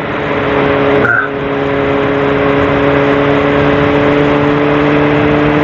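Sportbike engine running at a steady cruise, its note holding one pitch, under a strong rush of wind noise that swells over the first second and then holds steady.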